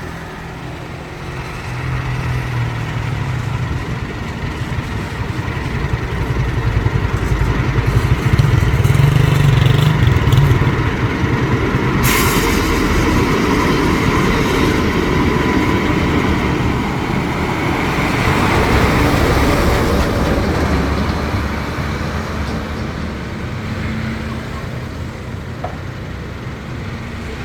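A dump truck's engine running on the road, growing louder twice as vehicles pass. There is one sudden sharp noise about twelve seconds in.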